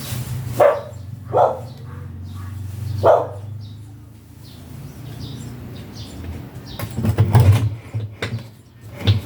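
A dog barking three times, short single barks in the first three seconds, over a low steady hum. Several knocks and rattles follow near the end.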